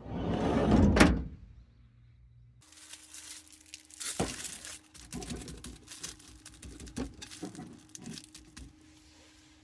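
A loud rustling swell ending in a sharp click about a second in, then a series of light knocks and rattles of things being handled.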